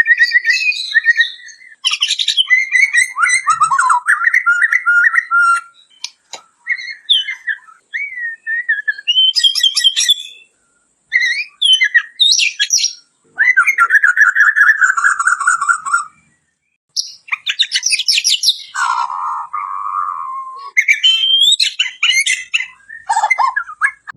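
White-crowned shama singing a varied song: clear whistled phrases mixed with fast chattering trills and harsher notes. The phrases come in bursts with short pauses between them.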